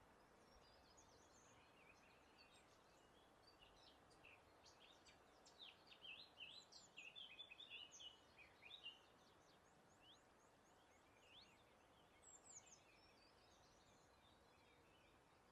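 Faint birdsong: several birds chirping and trilling in short, quick notes over a steady soft hiss of breeze. The calls are busiest from about six to nine seconds in.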